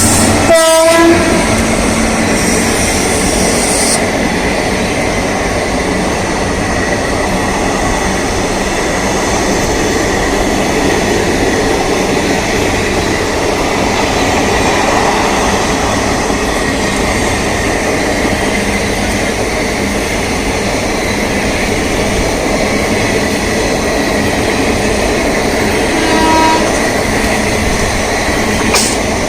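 Indian Railways train running, a loud steady rumble of wheels on rails that goes on throughout. A short horn sounds about a second in and again briefly near the end.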